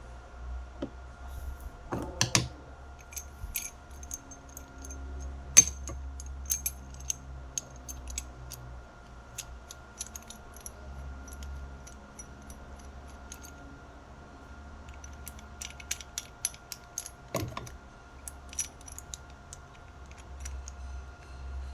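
Small metal parts and tools clinking and tapping as they are handled, in irregular sharp clicks, with a sharper knock about five and a half seconds in. A steady low hum runs underneath.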